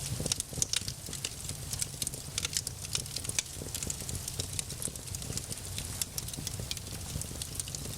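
Wood fire crackling, with frequent irregular sharp pops and snaps over a steady low background.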